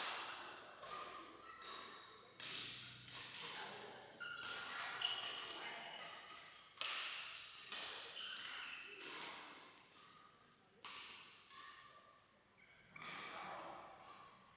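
Badminton rackets striking a shuttlecock in a doubles rally: a dozen or so sharp hits at an uneven pace of roughly one a second, each echoing in a large hall, with players' voices in between.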